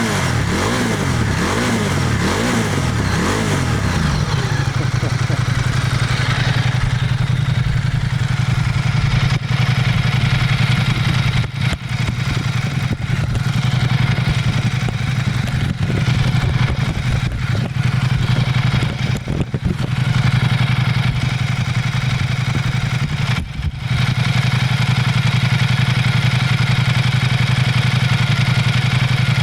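Ducati XDiavel S's 1262 cc Testastretta L-twin engine revved up and down a few times over the first four seconds, then running at a steady pitch with a few brief dips.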